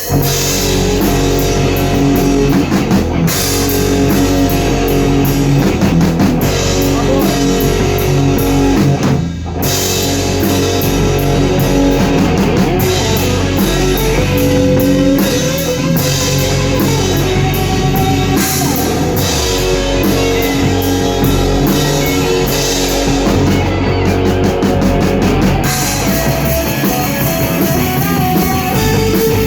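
Rock band playing a song live at rehearsal: electric guitars, bass and drum kit together, with a brief break about nine and a half seconds in before the band comes back in.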